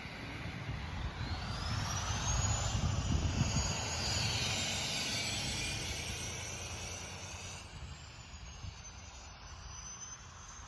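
A vehicle passing: its rumble and a high whine rising in pitch build over the first few seconds, then the whine falls and the sound fades.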